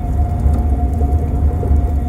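Deep-underwater ocean ambience: a steady, loud low rumble with a constant thin hum held above it.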